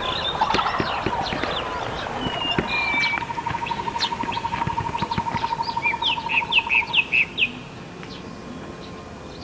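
Small birds chirping outdoors, with a rapid even trill running from about two seconds in and a quick run of loud, sharp chirps near the seven-second mark before it falls quieter.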